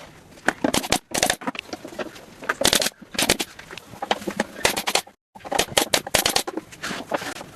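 Irregular sharp knocks and clicks of hand work on wood, cutting out abruptly for a moment about five seconds in.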